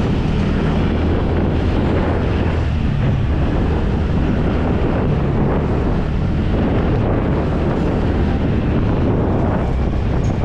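Wind rushing over the microphone of a moving bike, a steady rumbling noise with a low hum underneath.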